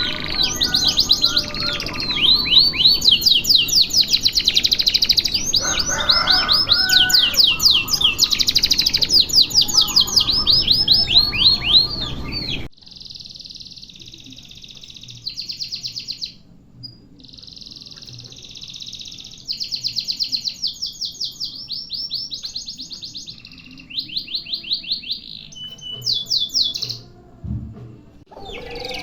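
Domestic canary singing long, fast rolling trills, one phrase running straight into the next. A little under halfway through the sound cuts off abruptly and goes on more quietly with the same kind of trills broken by short gaps.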